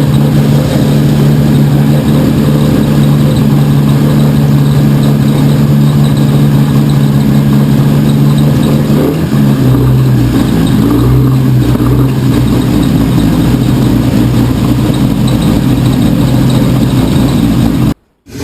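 Toyota 1JZ-GTE turbocharged 2.5-litre inline-six running steadily on its first start-up after a rebuild; its note steps down in pitch about halfway through as the idle settles lower.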